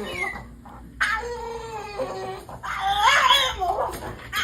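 A dog whining in two drawn-out, wavering cries.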